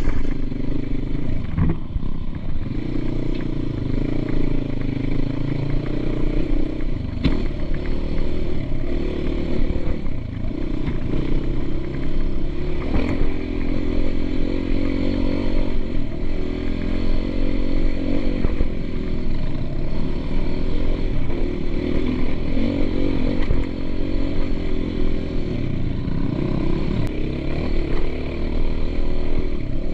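Motocross dirt bike engine running continuously, its pitch rising and falling as the throttle is worked, with a few brief knocks and rattles.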